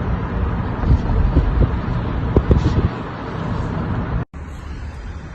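Wind buffeting the microphone over a steady low rumble, with low thumps in the first three seconds. The sound cuts out for an instant about four seconds in and comes back quieter.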